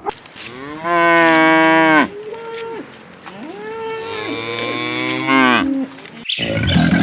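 Cow mooing twice, two long calls, the second one longer.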